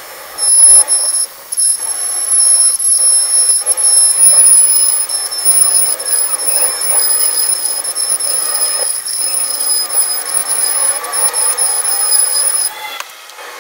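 Hot air rework station blowing: a loud steady hiss with a high-pitched whine, briefly interrupted just after it starts and cut off suddenly near the end.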